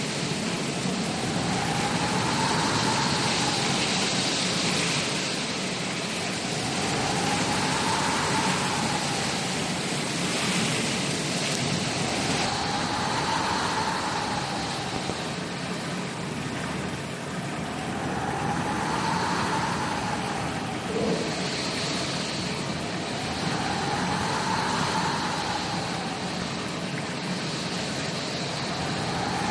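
Storm sound effect: a steady rush of wind and rain with a whistling wind howl that rises and falls in pitch about every five to six seconds.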